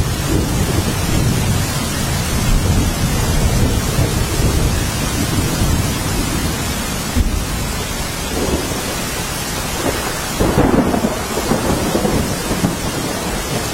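Heavy rain falling steadily, with a low rumble underneath that swells briefly about ten seconds in.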